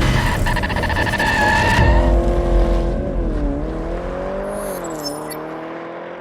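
A motor vehicle's engine with a held, wavering pitch, rattly and noisy for the first two seconds, then dipping and steadying as it slowly fades out.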